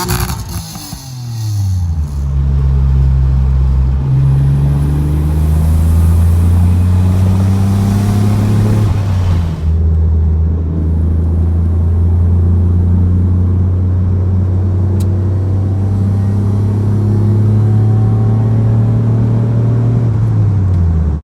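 Mitsubishi 3000GT SL's V6 running through a freshly fitted exhaust of 40-inch glass packs, an X-pipe and resonator tips, with no catalytic converters. The revs fall in the first second or two, climb slowly, dip briefly about nine to ten seconds in, then hold steady before dropping at the very end.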